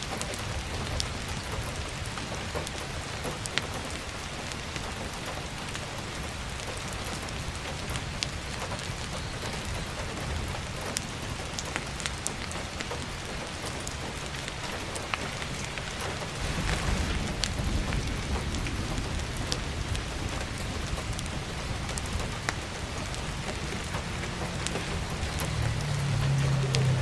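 Steady heavy rain pattering on a roof skylight, with scattered sharp crackles of burning firewood. A low rumble swells about two-thirds of the way through and again near the end.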